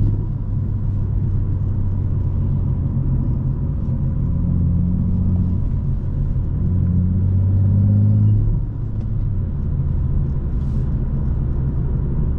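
BMW M2's turbocharged inline-six engine running while driving, its note rising for a couple of seconds and then easing off about eight and a half seconds in.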